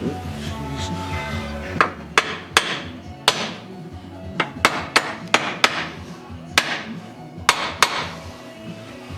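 Hammer tapping on metal engine parts: about a dozen sharp, ringing strikes at uneven spacing, several in quick pairs.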